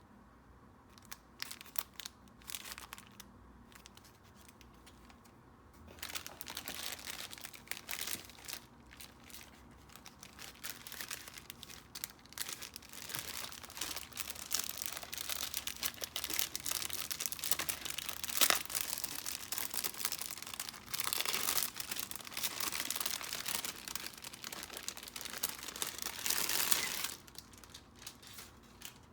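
Packaging being handled and unwrapped: a few light rustles and clicks, then about twenty seconds of continuous crinkling and tearing that stops abruptly near the end.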